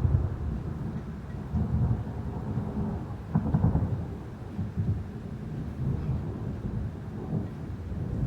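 Thunder rolling in a low rumble that swells again several times, over steady rain.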